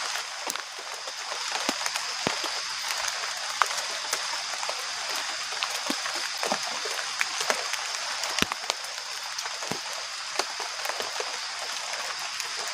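Heavy rain falling steadily, a constant hiss with many scattered sharp drops tapping on nearby surfaces.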